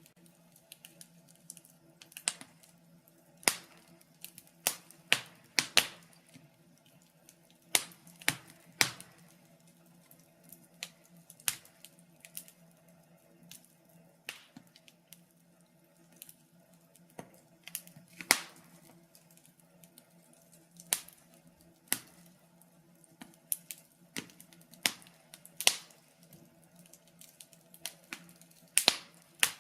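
Wood fire burning in a fireplace, crackling with sharp irregular pops, a few every couple of seconds, over a faint steady hum.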